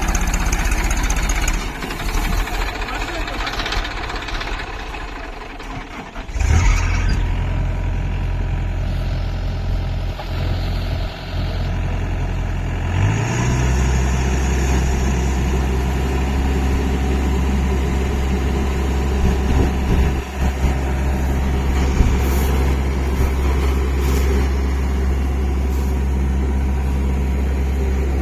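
Massey Ferguson 241 tractor's diesel engine running hard while working fully loaded in rice mud. It dips for a while, comes back in loud about six seconds in, and from about thirteen seconds on settles into a steady, stronger low drone.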